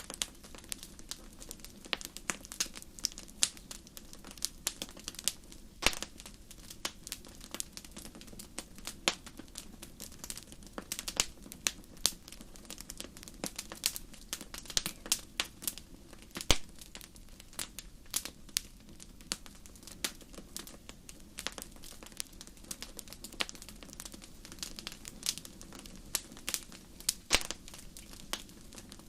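Wood fire in a fireplace crackling, with irregular sharp snaps and pops, a few louder than the rest, over a low steady rush of the flames.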